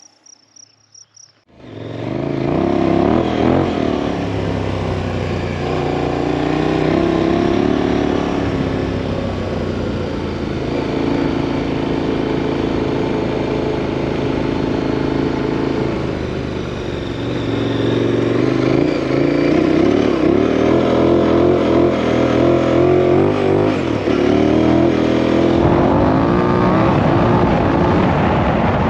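2018 KTM 1090 Adventure R's 1,050 cc LC8 V-twin engine running as the bike is ridden, its revs rising and falling, starting about two seconds in.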